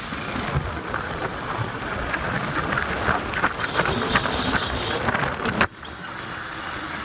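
Wind buffeting the microphone on a moving motorcycle, with crackling pops over a steady rushing noise; it cuts off abruptly about five and a half seconds in, and a steadier, quieter rush of wind follows.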